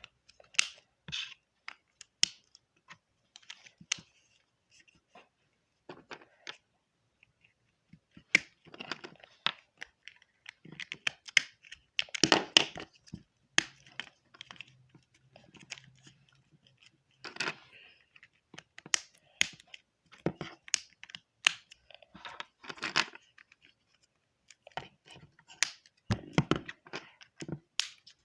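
Rasti plastic building pieces being handled and pressed together: irregular sharp clicks and rattles with short stretches of rustling.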